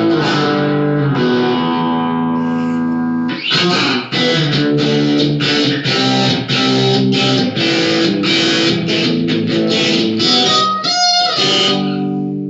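Electric guitar played through a Spark amp: a chord left ringing for about three seconds, then a quick riff of short, chopped chords.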